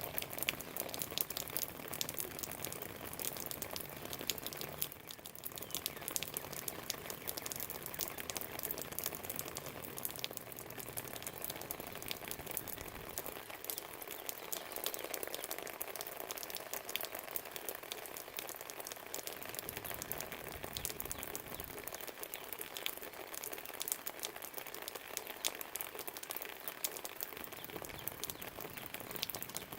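Steady rain falling, a dense patter of fine drops.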